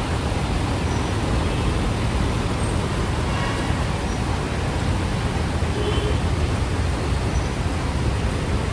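Steady city street traffic noise: road vehicles running past in a continuous low rumble.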